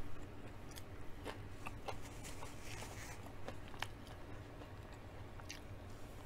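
A person chewing shrimp close to the microphone: soft mouth smacks and small clicks at irregular intervals.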